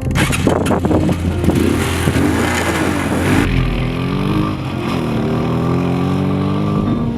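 150cc motorcycle engine running under way, cutting in suddenly, its pitch rising and falling as it revs, with rushing noise that lessens about halfway through.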